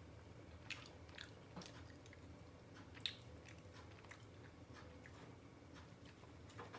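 Faint chewing and small mouth clicks of a person eating a bite of baked fish.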